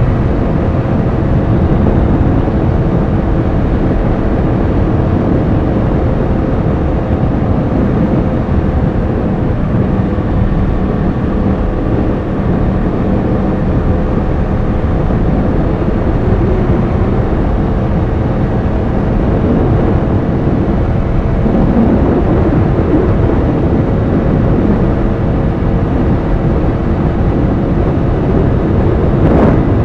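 Yamaha R1 sport bike's inline-four engine running at a steady cruise under heavy wind rush. The engine pitch wavers briefly about two-thirds of the way through, and a short sharp sound comes near the end.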